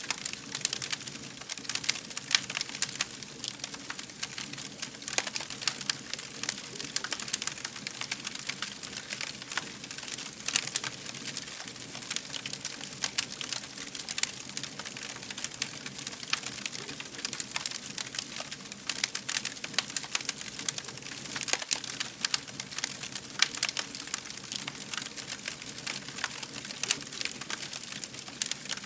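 Wood fire crackling: a dense, irregular run of sharp pops and snaps over a steady low hiss of burning.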